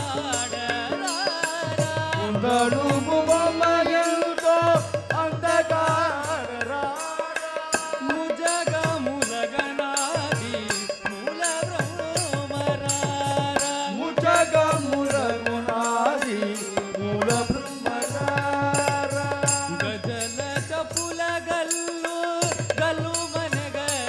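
South Indian devotional bhajan music: a sliding, ornamented melody over a steady, fast beat of drum strokes and sharp metallic clicks.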